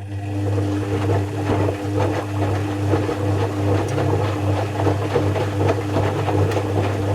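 Zanussi FC1000 compact washing machine coming on and running: a loud, steady mechanical hum of unchanging pitch with a busy rattle and water noise over it.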